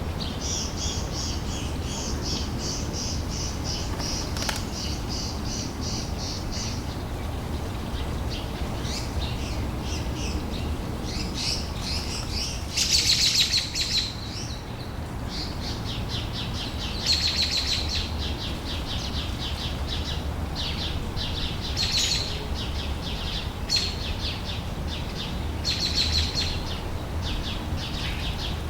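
Outdoor summer ambience of small birds chirping in rapid trilled series, with a louder burst of chirping about 13 seconds in and another about 17 seconds in, over a low steady rumble.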